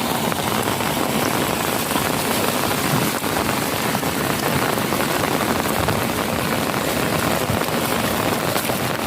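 Heavy rain pouring steadily, a dense, even patter of drops falling into puddles and standing water.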